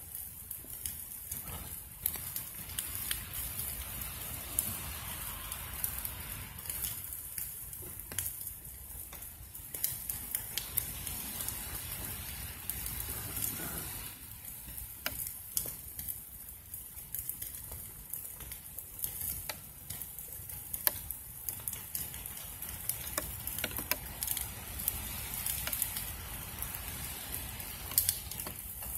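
Burn pile fire crackling and sizzling, with frequent short sharp pops.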